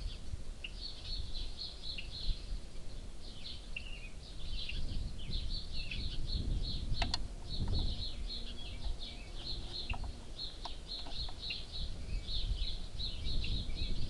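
A group of small birds chirping and chattering continually in short, rapid calls, over a low rumble of wind on the microphone, with one sharp click about seven seconds in.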